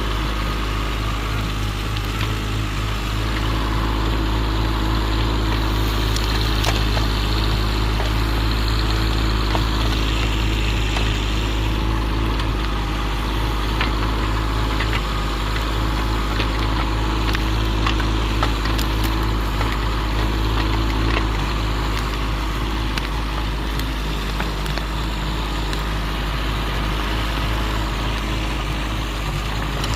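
Excavator engine running steadily under load while towing, with a few faint knocks over it.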